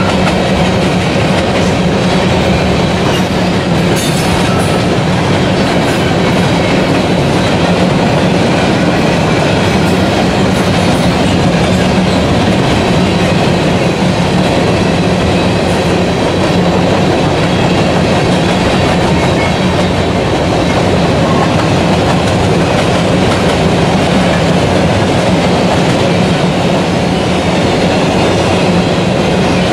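Empty covered hopper cars of a freight train rolling past, a loud, steady rolling noise of steel wheels on the rails that doesn't let up.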